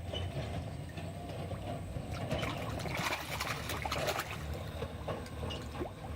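Water trickling and lightly splashing at the surface, with a cluster of small splashes in the middle as fish come up to snatch food.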